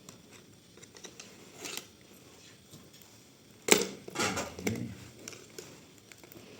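Hands working on a wheel with tools: a sharp crack about halfway through, then a second of crunching and scraping, with small knocks and rustles around it.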